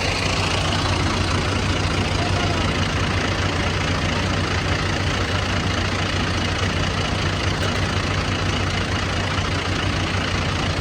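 Combine harvester running steadily: a deep, even engine hum under a broad rushing noise from the machinery.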